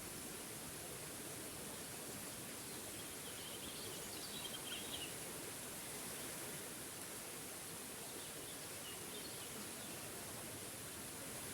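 Small waterfall's water rushing steadily, with a songbird chirping a quick series of high notes about three to five seconds in and again more faintly around eight seconds in.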